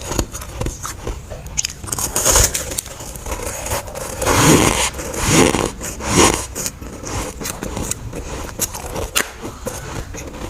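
Someone biting and chewing chunks of freezer frost: a run of crunches, three of them loudest in the middle, with small crackles between.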